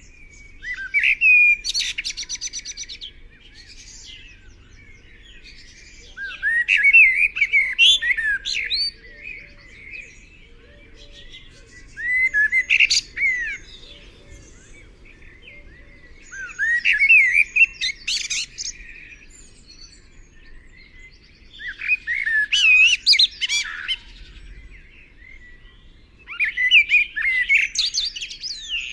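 A songbird singing six separate phrases of quick, varied chirping and warbling notes, each two to three seconds long, coming about every five seconds.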